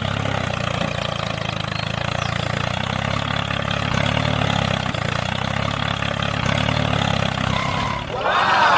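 Mini tractor's small engine running steadily at an even speed. Shortly before the end it gives way abruptly to a different sound that sweeps up in pitch.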